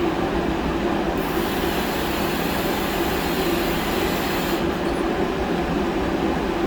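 Powder coating equipment running with a steady machine drone, and a high hiss of air from about a second in until about four and a half seconds in, as the powder gun is triggered.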